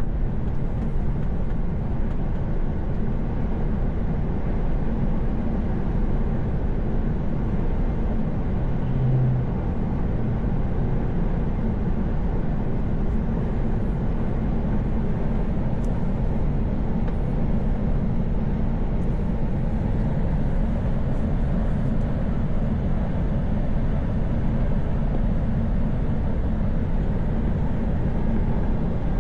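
Truck's diesel engine and tyre noise, steady while cruising along the motorway.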